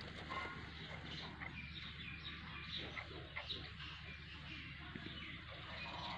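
Birds chirping and calling faintly: many short, high chirps scattered throughout, with no steady rhythm.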